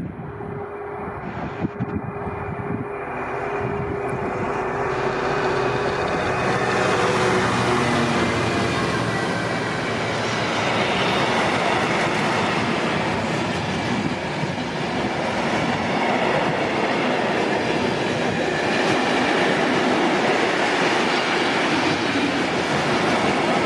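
Freightliner Class 66 diesel locomotive with its two-stroke EMD V12 engine running as it passes, its engine note dropping slightly over the first few seconds. It is followed by a long rake of open box wagons rolling by, a steady loud rumble and clatter of wheels on rail.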